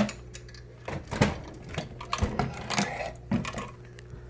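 Irregular clicks and knocks of small hard plastic and metal RC truck parts being handled and fitted, over a steady low hum.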